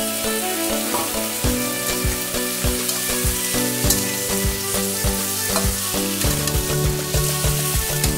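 Raw potato pieces, still wet from the colander, sizzling in hot oil in a metal wok, with a metal spatula stirring and clicking against the pan.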